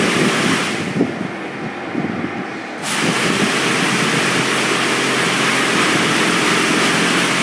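Magic Wand Nexus touch-free car wash spraying its second high-pressure rinse pass onto the car as a steady hiss of water, with a low machine hum underneath. About a second in the spray eases off, and it comes back on suddenly near the three-second mark.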